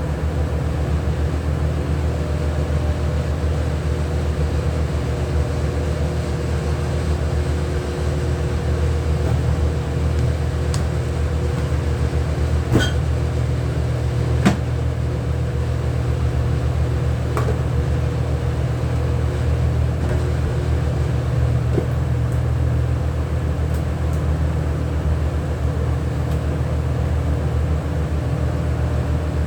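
A steady machine hum with a low drone and a few fixed tones, broken by a couple of sharp clicks or knocks about halfway through.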